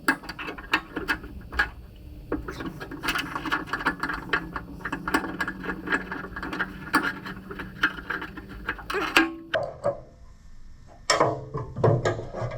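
Hand tools and loose metal parts clicking, clinking and rattling as the amp meter and dash plate of a Wheel Horse garden tractor are worked loose, in dense irregular clicks. It goes quieter for a moment near the end, then the clinks pick up again.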